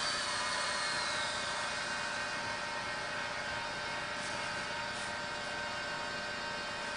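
InMoov 3D-printed humanoid robot's hobby servo motors whining steadily as the robot moves its arms into a gesture and holds it, the whine easing slightly over the first couple of seconds.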